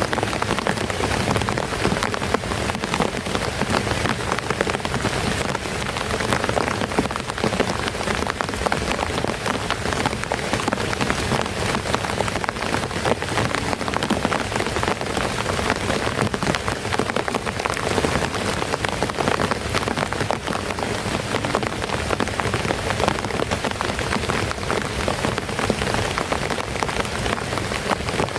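Heavy rain falling steadily, a dense, even patter of drops striking a surface.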